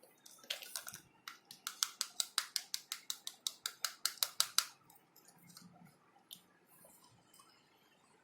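Slime being worked by hand, making rapid, even sticky clicks, about five a second for some four seconds, then a few faint scattered ones.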